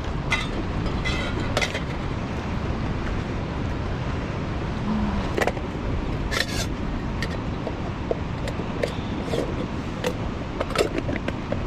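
Steady low rumble of strong wind, with scattered sharp clicks and ticks about once a second.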